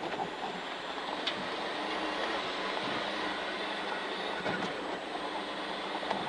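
Rally car driving at speed on a winter stage, heard from inside the cabin: a steady rumble of engine, tyres and road noise, with a couple of faint knocks.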